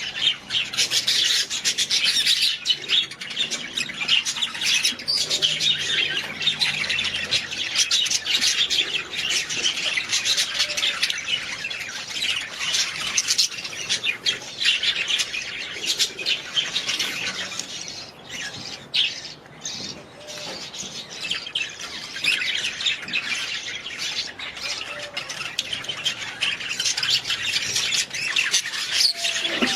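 Budgerigars chattering: many quick overlapping chirps, warbles and squawks at once, thinning briefly a little past halfway before picking up again.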